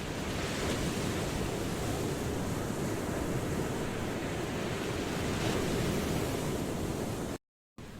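Ocean waves washing on a shore as a steady surf rush. Near the end the sound cuts out to dead silence for a fraction of a second, then returns quieter and builds again.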